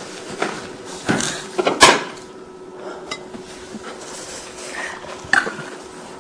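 Plates and cutlery clinking, with several separate knocks, the loudest about two seconds in.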